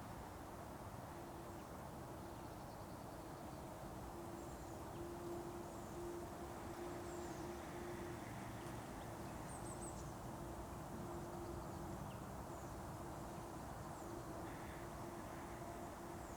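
Faint forest ambience: scattered short, high bird chirps over a soft steady background rush and a steady low hum.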